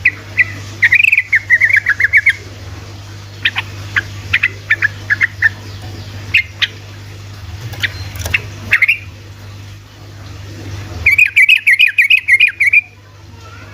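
Yellow-vented bulbul (trucukan) singing: two quick bubbling runs of notes, one near the start and one near the end, with scattered single chirps between them over a steady low hum.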